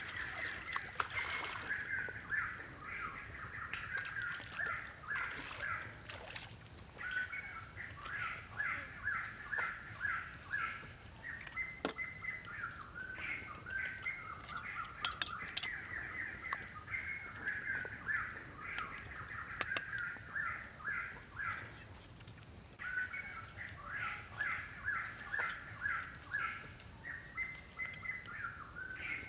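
Outdoor forest ambience: a steady high insect drone, with a bird calling in long runs of rapid repeated notes that break off for a few seconds and start again. A few faint knocks are heard.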